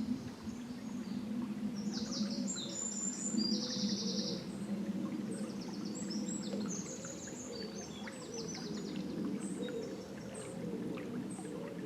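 Songbirds singing rapid trills and chirps over the low, steady burble of a river. The birdsong is busiest in the first part and thins out after about eight seconds.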